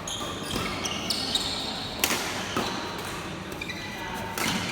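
Badminton rally in an indoor hall: several sharp racket strikes on the shuttlecock, with shoes squeaking on the court floor between them.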